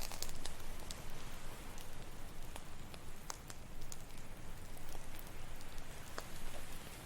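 Campfire crackling, with irregular sharp pops, over a steady wash of ocean surf.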